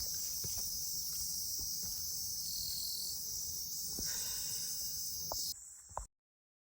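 A steady, high-pitched chorus of insects shrilling, with faint knocks of footsteps underneath. The sound cuts off suddenly near the end.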